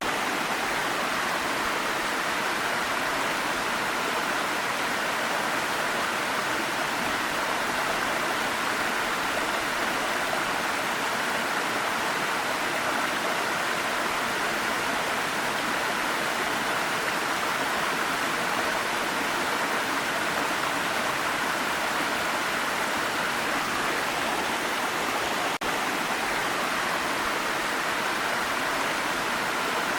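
Waterfall rushing: a steady, even wash of falling water that does not let up, broken only by a split-second dropout near the end.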